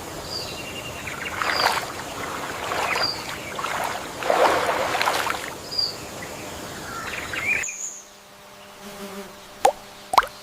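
Insects buzzing over a steady wetland ambience, with short high chirps every second or so. Near the end the background falls away and a couple of sharp water plops follow.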